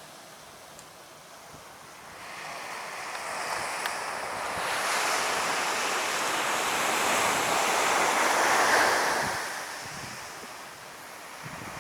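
Beach surf: a wave builds for several seconds, peaks and dies away about ten seconds in, over wind on the microphone.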